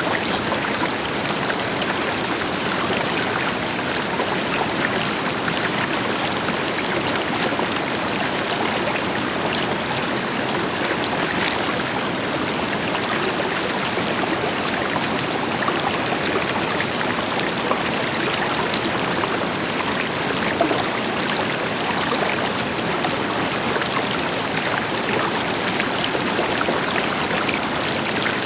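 River water running steadily over rocks, a dense, even rush with small splashes and trickles through it, with a distant waterfall adding a deeper rush beneath.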